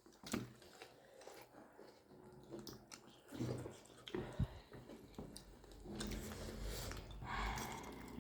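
People chewing and biting into momo dumplings, with small scattered mouth clicks and smacks.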